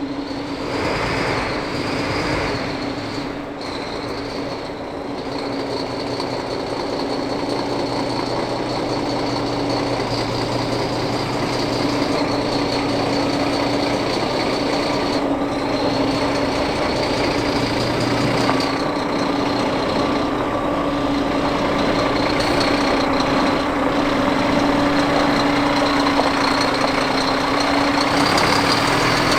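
Scania G440 8x8 truck's diesel engine running steadily, with a steady high whine above the engine note.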